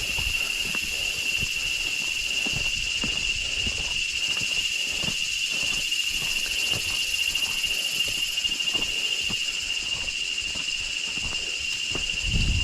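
A steady, high-pitched drone of jungle insects, one unbroken tone, with irregular footsteps on the trail. A louder low rumble comes in near the end.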